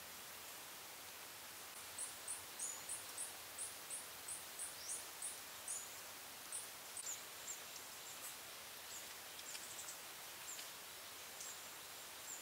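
A small bird calling faintly: a run of very high, thin chirps, about three a second for roughly four seconds, then scattered single notes. Under it is a steady background hiss.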